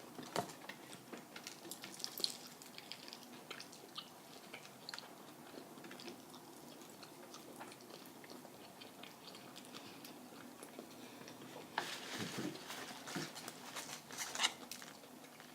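Quiet close-up chewing and biting of fried chicken, with scattered small crunches and mouth clicks, busier about twelve seconds in.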